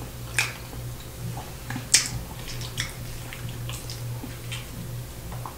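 Close-miked chewing with scattered short, wet mouth clicks and smacks, over a steady low hum; near the end a fork scoops macaroni and cheese from a metal tray.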